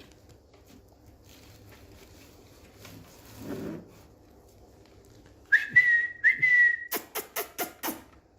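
Indian ringneck parakeet whistling two short notes, each rising and then held, followed by a quick run of about six short, sharp sounds.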